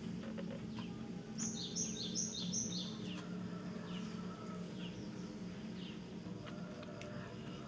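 Wild bird calling: a quick series of four high two-part notes, each a short held tone dropping away, about a second and a half in, then a few scattered single falling chirps, over a steady low background hum.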